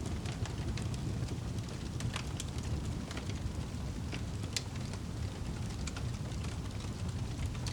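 Fire burning in a fireplace: irregular sharp crackles and pops over a steady low rush.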